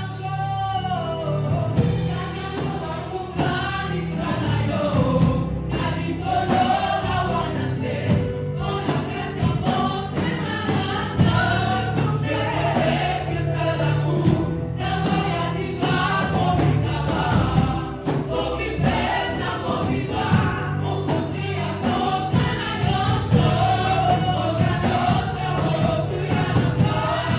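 Gospel worship song: a church choir singing over steady bass and keyboard-like accompaniment with a regular beat.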